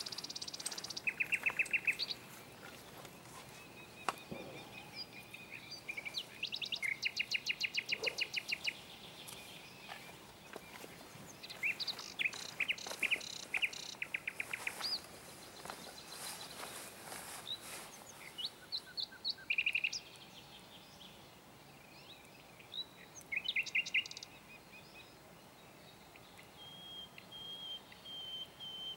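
Songbirds singing: fast high trills and short whistled notes that come back every few seconds, with a thin steady whistle near the end.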